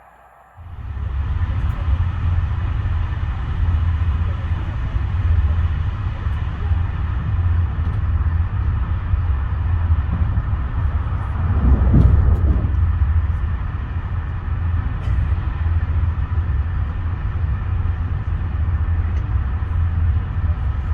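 A train running, a loud steady low rumble with a brief swell about twelve seconds in.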